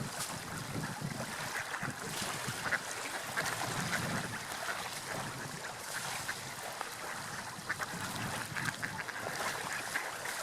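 Gulls calling, short repeated cries over a steady wash of sea waves and wind.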